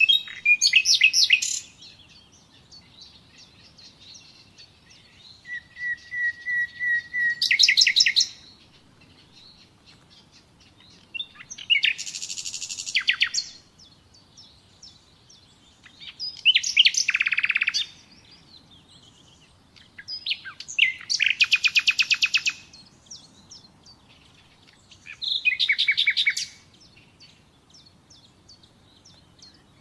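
Common nightingale singing: six phrases of fast repeated notes, each one to three seconds long, separated by pauses of two to three seconds. One phrase, about six seconds in, opens with a long steady whistle before breaking into a rapid trill.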